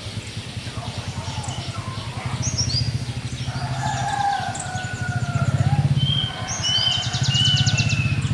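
Small birds chirping and calling, with a rapid trill near the end, over a steady low pulsing hum.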